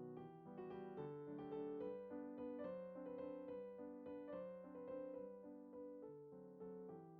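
Soft background piano music: a gentle melody over a steady flowing accompaniment of quickly repeated notes.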